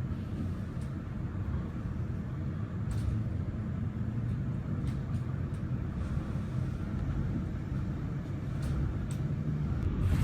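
Steady low rumble of a moving vehicle heard from inside, with a few faint clicks and rattles.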